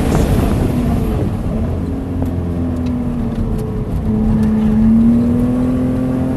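BMW Z3's engine heard from inside the car on a race track, with wind and road noise while it slows hard from high speed for a corner. From about four seconds in, the engine note rises steadily as the car accelerates out of the turn.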